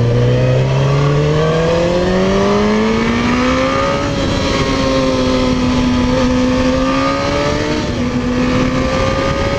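Suzuki GSX-R1000R sport bike's inline-four engine under way: the revs climb steadily for about four seconds, then hold at a steady cruise with a small dip near the end, over a constant rush of wind.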